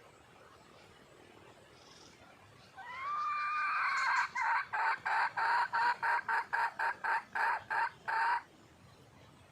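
Red junglefowl hen calling: one drawn-out rising note, then a fast, even run of over a dozen short clucks, about three or four a second, that stops abruptly. The call is a hen calling for a male.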